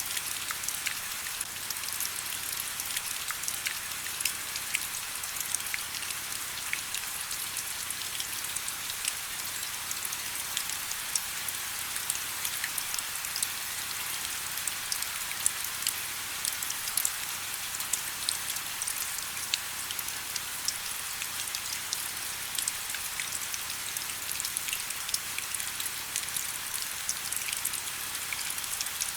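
Steady rain: an even hiss dense with many sharp ticks of single drops landing close by.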